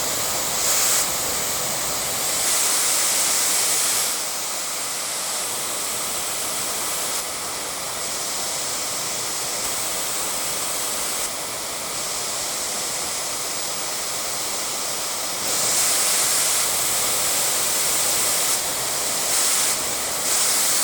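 Dyson Airwrap's Coanda smoothing dryer blowing air: a loud, steady rush that changes in strength and tone in steps several times.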